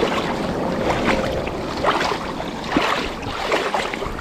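Footsteps wading through shallow creek water and tall grass, with irregular splashes and swishes over a steady rush of water and wind noise.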